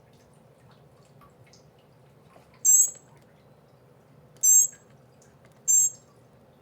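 Baby bird's begging calls during hand-feeding: three short, shrill, very high-pitched calls, each well under half a second.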